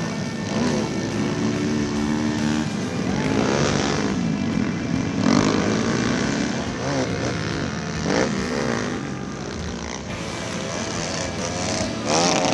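Small-displacement pit bike engines revving, their pitch climbing and dropping repeatedly as the bikes accelerate and shift, with several engines overlapping.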